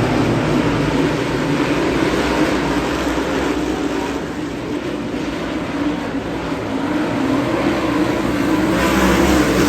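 Race car engines running at speed on a dirt oval, a steady loud drone that eases a little in the middle and swells again near the end.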